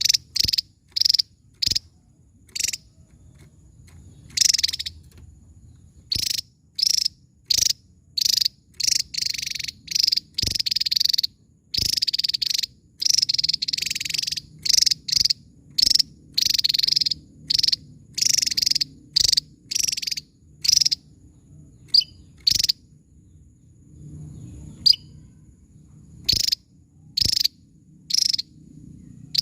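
Javan tesia singing: a long run of sharp, high calls in quick, irregular succession, some clipped short and some drawn out for a second or so.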